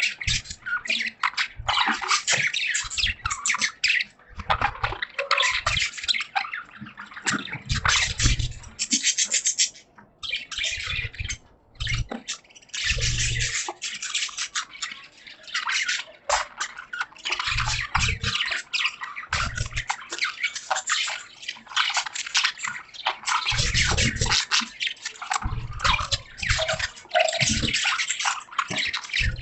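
A group of budgies chattering and warbling nonstop in a dense, busy stream of chirps and clicks, over a watery patter of rain. Short low thumps come now and then.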